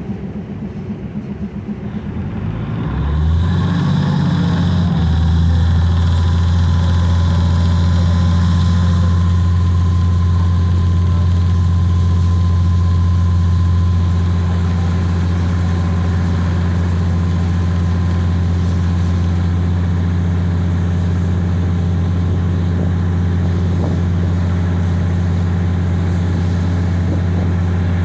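Diesel locomotive engine of a passenger train throttling up about three seconds in. Its pitch and loudness climb, then it settles into a steady, deep drone.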